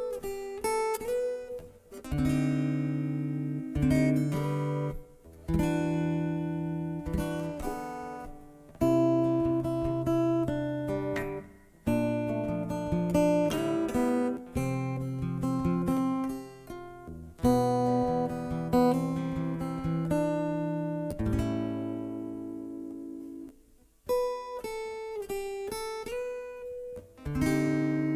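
Acoustic guitar playing a slow piece. Plucked chords are struck and left to ring and fade, with a new chord every two to three seconds.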